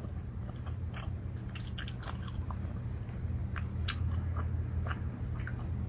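A person chewing a crunchy snack, with irregular small crunches through most of the stretch.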